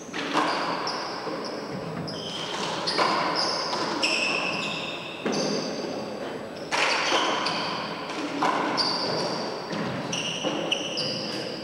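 Handball rally in an echoing four-wall court: the rubber ball smacks off the walls and floor every second or so, with many short high-pitched sneaker squeaks between the hits.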